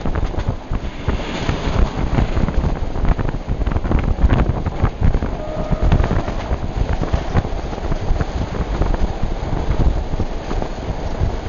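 Passenger train running, heard from inside the carriage: a steady low rumble with irregular knocks and rattles.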